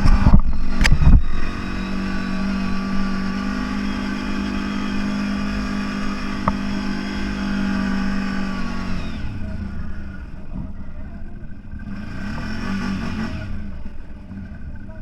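CFMoto 1000 off-road vehicle's engine running at steady throttle, with a few loud knocks in the first second or so. About nine seconds in the engine eases off, then it revs briefly up and back down near the end.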